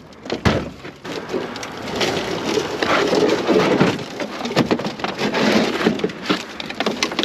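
A dense, irregular run of crackling, scraping and knocking from handling and dragging gear over rough ground.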